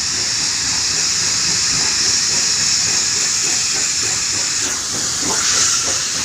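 Steam locomotive 5917 hissing steam steadily as it passes, with wheel and rail knocks coming in over the second half.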